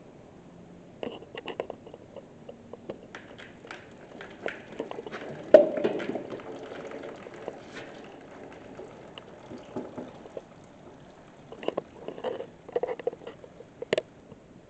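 Oil filter being worked off a John Deere 4055 tractor engine: scattered clicks and knocks of tools and metal, a sharp clank about five and a half seconds in, and oil running from the filter mount.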